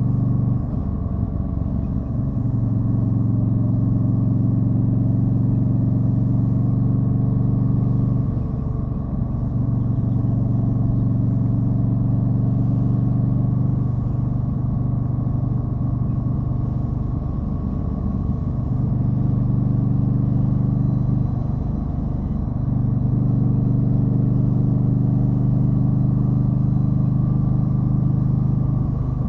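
2013 Yamaha Stryker's V-twin engine running steadily under way, its note dipping and shifting several times as the revs change.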